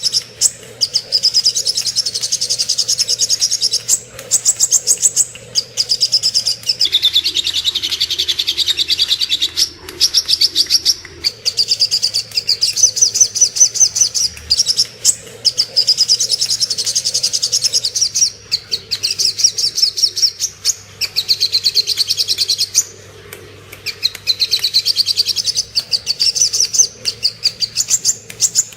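Little spiderhunter (sogok ontong) singing: high, fast chattering trills in phrases a few seconds long, repeated with short pauses between them.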